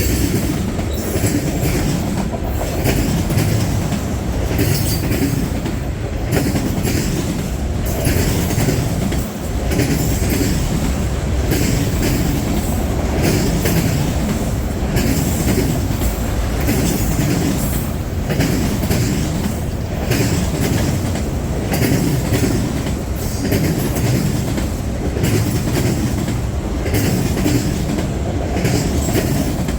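Long Union Pacific freight train rolling past at close range: a steady rumble of freight cars with repeated clacks of the wheels over the track.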